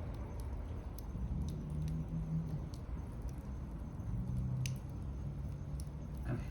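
Wood fire burning in a fire stand, with scattered small crackles and pops over a steady low rumble.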